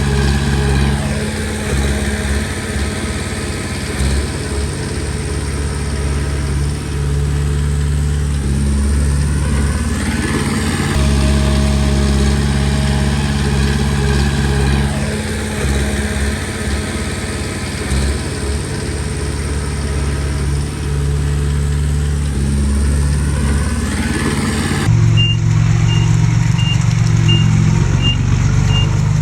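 Komatsu D20P bulldozer's diesel engine running steadily, its pitch rising and falling a little as it works. About 25 seconds in the sound changes abruptly and a reversing alarm starts beeping about twice a second.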